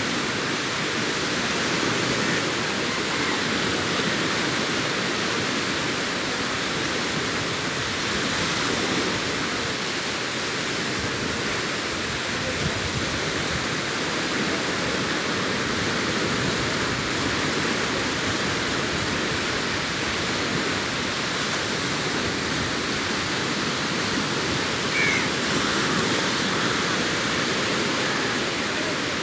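Sea surf washing onto a beach: a steady, unbroken rush of breaking waves.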